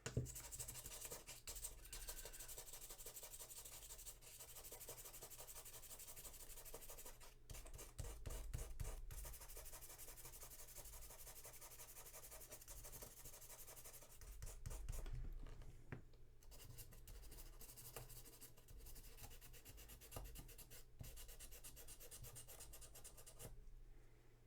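Steady, rapid scratching and rubbing as small metal parts of a 1940s jeep headlight switch are scrubbed clean by hand, with a few brief pauses.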